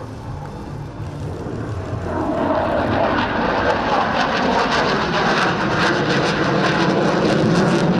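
Aircraft engine noise from a plane flying past the display line, growing louder about two seconds in and then holding loud and steady.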